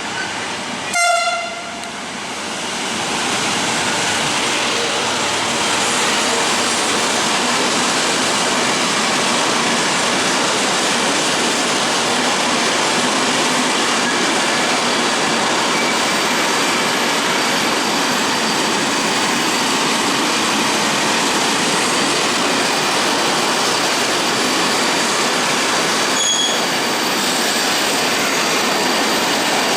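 A train horn gives one short blast about a second in. A train then passes at close range, with a loud, steady noise of wheels on rail that lasts the rest of the time. A brief high-pitched tone is heard near the end.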